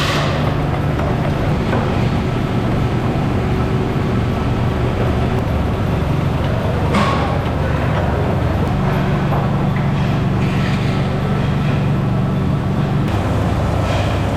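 Factory machinery running with a steady low hum that shifts in pitch a couple of times, broken by an occasional sharp metallic knock and short hissy bursts.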